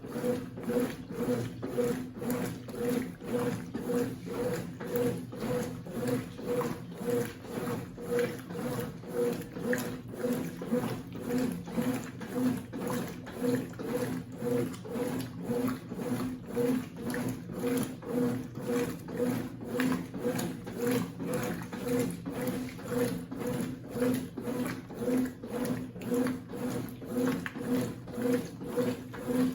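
Consul CWC08 top-loading washing machine agitating a load, its motor humming and swelling in a steady rhythm of about two strokes a second.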